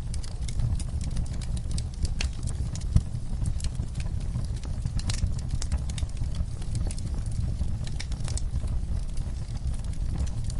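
Wood fire burning in a fireplace: irregular crackles and pops over a low, steady rumble, with one sharper pop about three seconds in.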